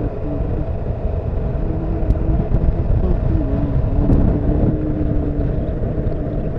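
Honda CBF motorcycle engine running while riding, under heavy wind rumble on the camera, with its pitched engine note shifting a few times.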